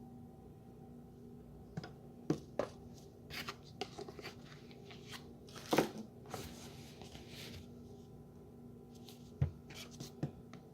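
Scattered clicks and rustles of packaging and utensils being handled, with a longer, louder rustle about six seconds in.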